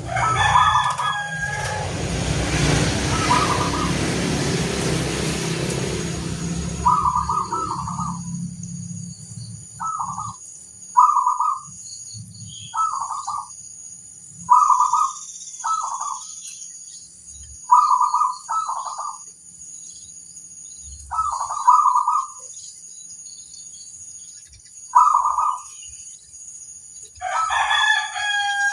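Zebra dove (perkutut) cooing: about a dozen short calls, singly or in pairs, every one to three seconds. A loud rush of noise with a low rumble covers the first several seconds, and a louder, fuller call comes at the start and again near the end.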